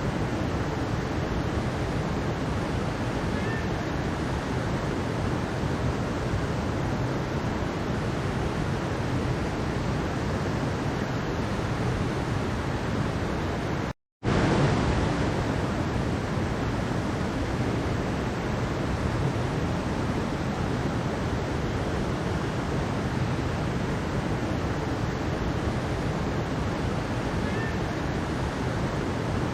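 Mountain stream water rushing and splashing steadily over rocks. About halfway through it drops out completely for a split second, then carries on unchanged.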